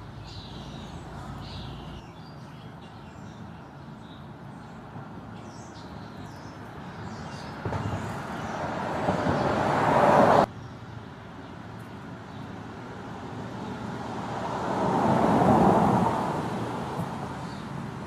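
Road traffic over an outdoor background: a vehicle passing swells up and is cut off suddenly about ten seconds in, then a second one rises and fades a few seconds later. Faint bird calls sound in the first half.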